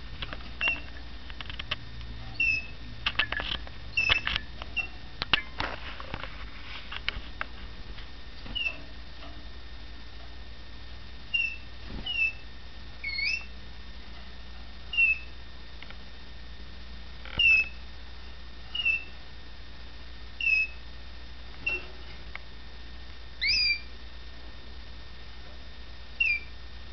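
Young male red factor canary giving short, high chirps one at a time, every second or two, some sweeping up or down in pitch, rather than a full song. A run of clicks and rustles sounds among the chirps in the first several seconds.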